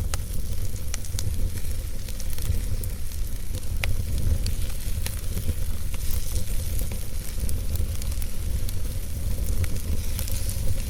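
Wood fire burning in a fireplace: a steady low rumble and hiss, with sharp crackles and pops scattered throughout.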